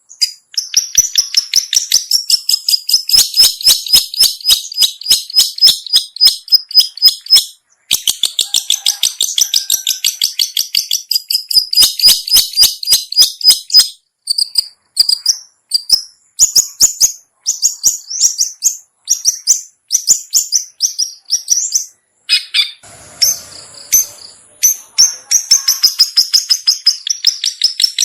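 Long-tailed shrike (cendet) lure call: long strings of rapid, sharp, high-pitched repeated notes with short breaks, and a harsher scratchy stretch about two-thirds of the way through.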